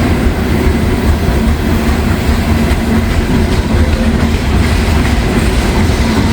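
Loaded coal hopper cars of a long freight train rolling past, a loud, steady noise of steel wheels running on the rails.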